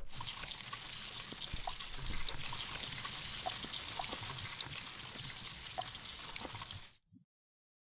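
Water trickling and splashing steadily, with small scattered drips, cutting off abruptly about seven seconds in.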